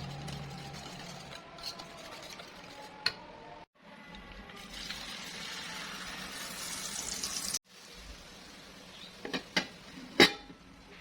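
Egg omelette batter frying in hot oil in a pan, sizzling steadily, with a few sharp knocks of a utensil against the pan, the loudest about ten seconds in. The sound breaks off abruptly twice between edited clips.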